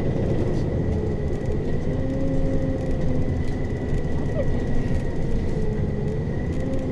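Interior running sound of a Mitsubishi Fuso Aero Star 2PG-MP38FK city bus under way: a diesel engine and drivetrain hum over low road rumble, with a constant high whine. The drivetrain tones dip slightly and rise again near the end.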